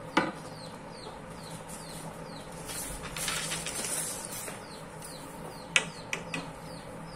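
Short, high, falling chirps from a bird repeat about twice a second. A rustling burst comes in the middle, and a few sharp knocks near the end as thin bamboo poles are handled.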